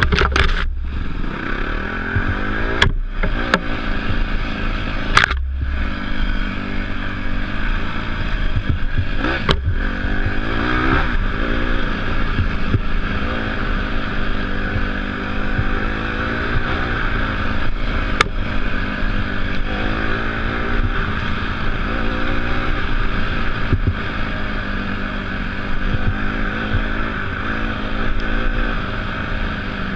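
Off-road motorcycle engine running under changing throttle, its pitch rising and falling again and again, over a steady rush of wind. A few sharp knocks and clatters cut through, near the start, a few seconds in, and around a third of the way through.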